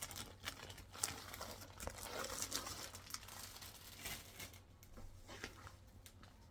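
Plastic wrapping crinkling and rustling as a rolled diamond painting canvas is unwrapped and handled. The crackling is busiest for the first four seconds or so, then thins out.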